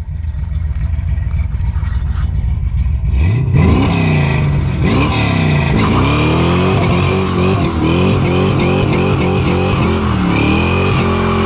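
1970 Ford Maverick's engine running with a low rumble, then revving hard from about three seconds in, its pitch climbing and dropping again and again.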